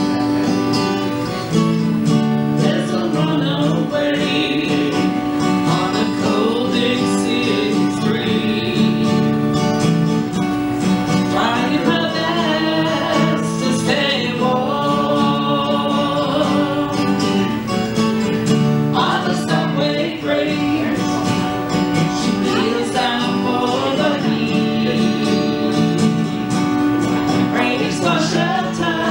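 Live song performance: singing with acoustic guitar accompaniment.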